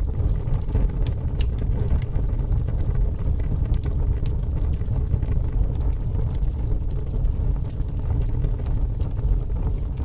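Fire burning: a steady low rumble with frequent small crackles and pops throughout.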